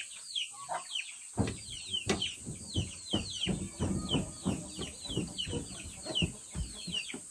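Chickens peeping and clucking, a steady stream of short, high, falling chirps about three or four times a second. From about a second and a half in, a run of dull low knocks or rubbing strokes sounds under them.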